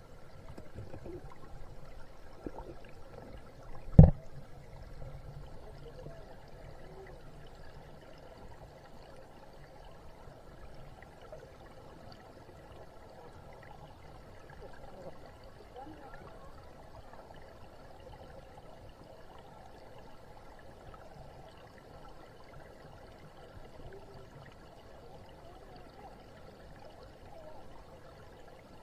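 Stream water flowing steadily, with one sharp knock about four seconds in.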